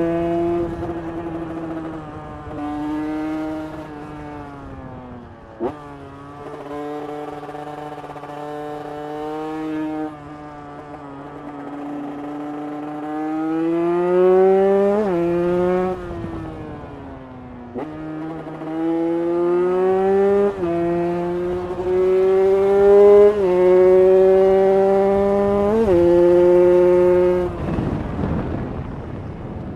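KTM 150 EXC two-stroke single with a ProCircuit exhaust header, ridden hard. The revs climb in each gear and drop sharply at each upshift, with several roll-offs and pickups. Near the end the engine note fades into a rushing noise.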